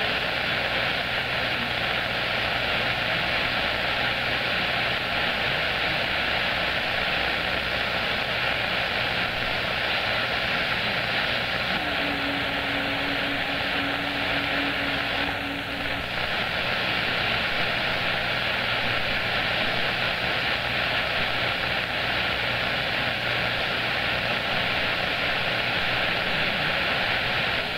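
CB radio receiver hissing with static on an open channel between transmissions, a steady rushing noise with a faint low hum under it. A low steady tone comes in about twelve seconds in and stops about four seconds later.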